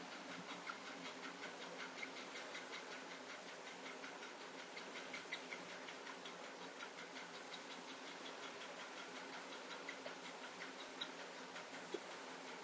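Faint, rapid, regular clicking over a low steady hum.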